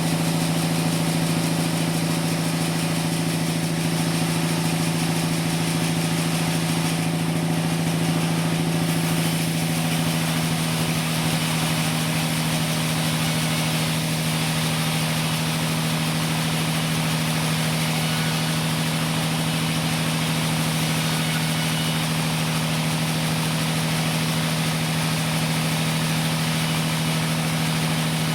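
Sawmill machinery running steadily with a constant hum and a hiss over it; the hum shifts slightly about ten seconds in.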